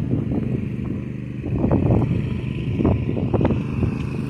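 Husqvarna zero-turn riding mower's engine running steadily after a repair to its ground wire. Irregular short knocks and rustles sound over it.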